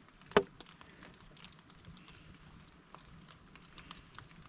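A drop of bigleaf maple sap falling from the tap tubing into a collection bucket: one sharp plink with a short ring about half a second in, followed by faint scattered ticks.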